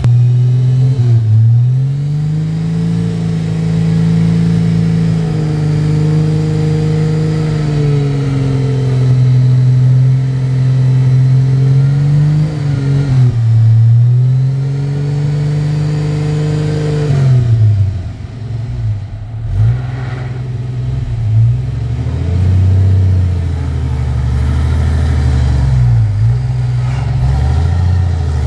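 Engine of a modified off-road 4x4 revving hard and holding high revs while climbing a muddy slope, easing off briefly about twelve seconds in and revving up again. About eighteen seconds in the revs drop, and it runs lower with repeated short blips of throttle.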